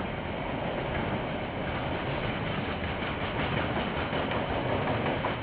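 Freight train wagons rolling past: a steady rumble of steel wheels on the rails, with clicking from the wheels crossing rail joints in the middle.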